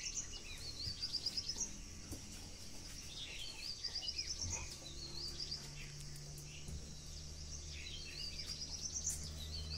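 A bird singing short phrases of quick high notes that climb in pitch, repeated several times. A low steady hum comes in about halfway through.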